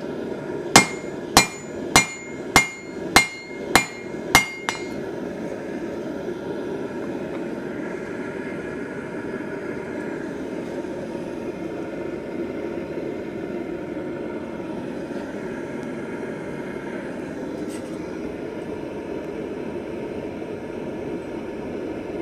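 Blacksmith's hammer striking steel on an anvil: about seven ringing blows, a little over one a second, in the first five seconds. After that a steady rushing noise carries on alone.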